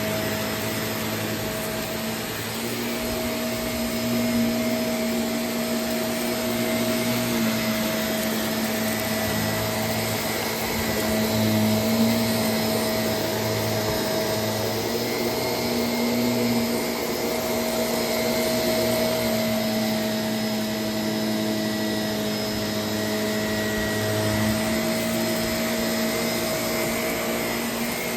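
Vacuum cleaner running steadily. Its motor hum swells and eases every few seconds as it is worked over the floor.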